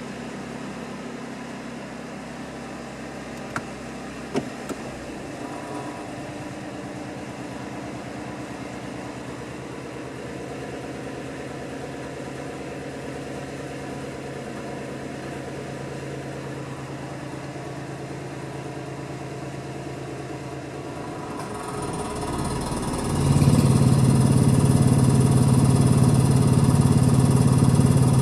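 Nissan Moco's 660 cc three-cylinder engine idling steadily, with two light clicks a few seconds in. Near the end it swells and then becomes much louder and fuller, with added hiss.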